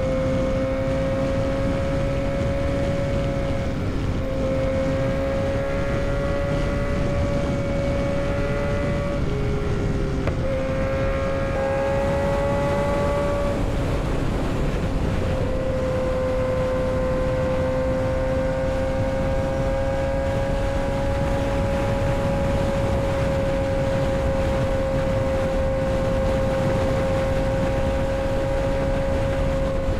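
Kawasaki ZX-6R 636's inline-four engine running steadily at high revs while riding, with wind rushing past. The engine note dips briefly about ten seconds in, climbs again, then settles to a steady pitch.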